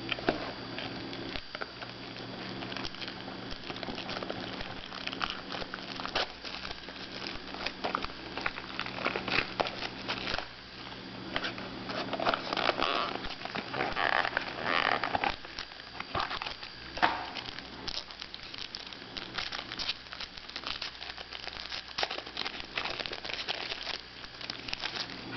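Trading card pack being opened and handled: irregular crinkling and rustling of the wrapper and cards, with scattered small clicks, over a faint steady low hum.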